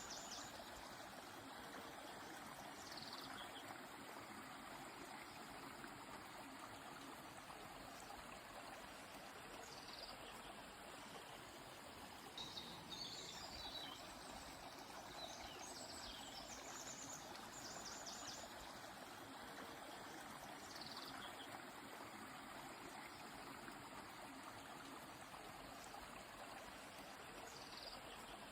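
Flowing river water, a steady gentle rush, with faint birdsong scattered above it: short falling chirps and a few quick trills now and then.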